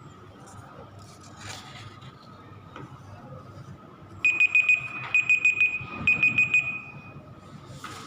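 Electronic alarm beeping: a high, steady tone in about three quick groups of four beeps, starting about halfway through.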